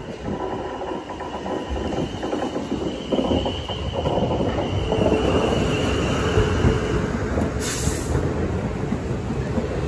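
South Western Railway Class 450 Siemens Desiro electric multiple unit approaching and running over the level crossing: wheel-on-rail rumble growing louder from about halfway through, with a steady whine as it passes. A brief hiss near the end.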